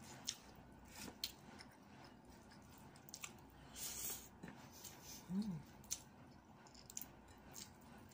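Close-mic'd mukbang eating sounds: faint chewing with scattered wet mouth clicks as egado and rice are eaten by hand, and a brief low hum about five seconds in.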